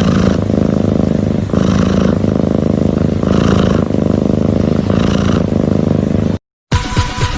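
Cat purring loudly close to the microphone, a steady rumble that swells with each breath about every second and a half. It cuts off abruptly about six seconds in.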